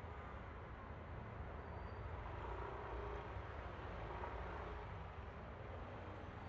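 Yamaha Aerox V3 scooter on a ride: its small single-cylinder engine running steadily under a smooth wash of wind and road noise.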